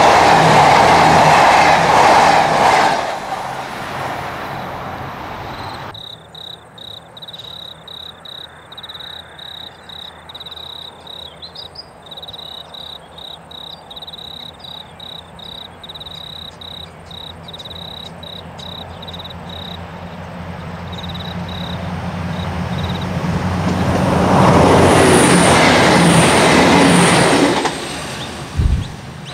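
V/Line VLocity diesel multiple units passing at speed: one train rushing by close up, then another approaching from far off, its engine note and rail noise growing until it passes close by. While that train is still distant, a high chirping runs in a fast, regular rhythm.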